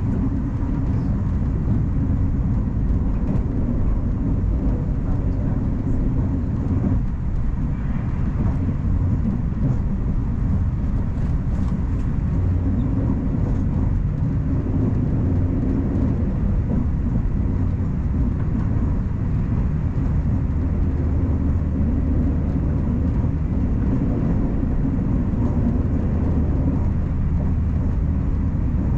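Steady low rumble of a Taiwan Railway Puyuma Express, a TEMU2000 tilting electric multiple unit, running along the line.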